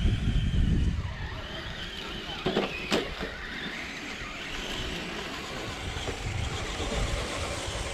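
Radio-controlled scale crawler truck's electric motor and drivetrain whining steadily as it crawls over rocks, with two sharp knocks about two and a half and three seconds in. A low rumble in the first second.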